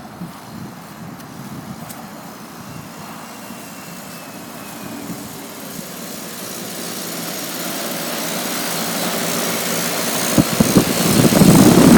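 Outdoor air-conditioner or heat-pump condensing unit running, its fan blowing and scroll compressor humming, growing steadily louder as it is approached. A couple of sharp knocks come near the end.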